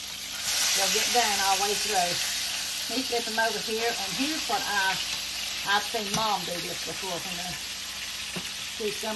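Boneless pork loin chops frying in hot oil in a pan: a steady sizzle that grows louder about half a second in.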